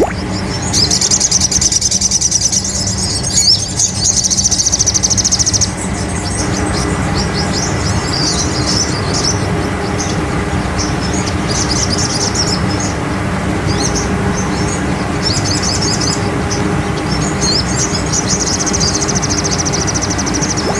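Sogon (Aethopyga sunbird) song: a fast, high-pitched trill held for about five seconds, then shorter, broken trilled phrases. A steady low hum runs underneath.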